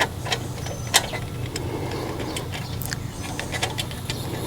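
Scattered, irregular clicks and light knocks of hand tools and metal parts being handled while a generator engine is taken apart, the loudest about a second in, over a steady low hum.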